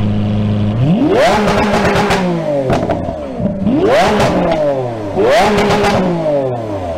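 Lamborghini Aventador's 6.5-litre V12 idling, then revved three times, starting about a second in. Each rev climbs sharply in pitch and falls back slowly.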